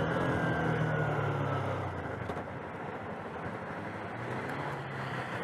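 Motorised bicycle engine running under way, easing off about two seconds in and carrying on more quietly.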